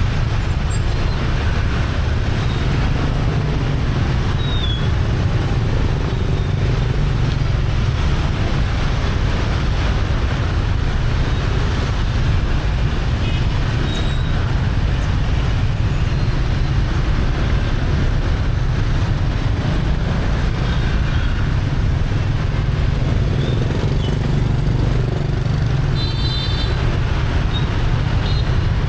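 Steady road noise from a motorbike in moving city traffic: a constant heavy rumble of the engine and rushing air, with the wash of surrounding motorbikes and cars. Brief faint high tones sound near the end.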